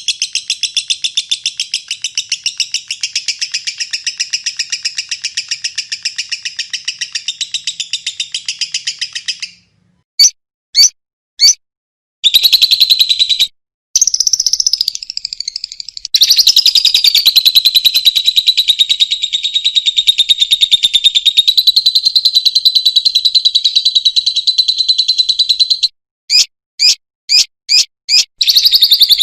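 Lovebird in long, rapid, high-pitched chattering trills (ngekek): one run of about nine seconds, a few short separate chirps, then a second long run of about ten seconds, ending in a string of single chirps.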